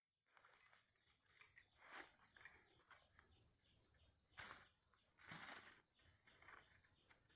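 Faint, steady high-pitched insect chorus, with a few brief rustling noises, the loudest about four and a half and five and a half seconds in.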